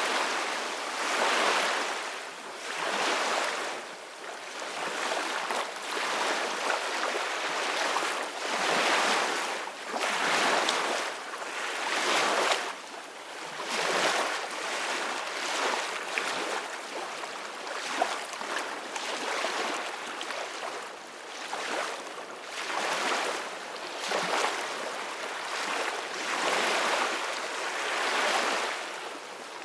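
Ocean waves washing ashore, a rushing surf that swells and fades in repeated surges about every one to two seconds, with little deep rumble.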